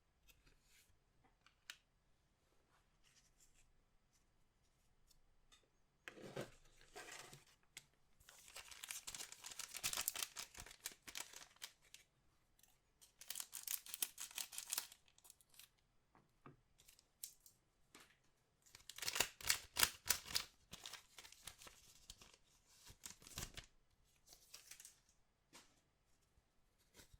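Trading-card pack wrappers being torn open and crinkled by hand, in several bursts of tearing and crackling with quieter handling between, the loudest about two-thirds of the way through.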